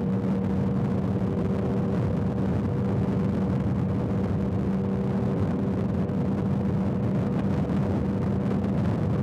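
Motorcycle engine running at a steady cruising speed on a highway, its pitch holding even, with wind and road noise over it.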